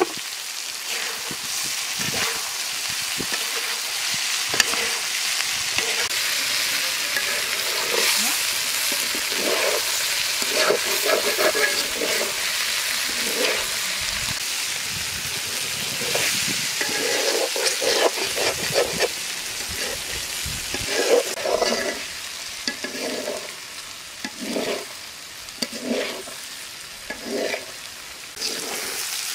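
Sliced okra sizzling in hot oil in an iron kadai, with a steady frying hiss. A spatula stirs and scrapes the pan, in strokes about once a second through the second half.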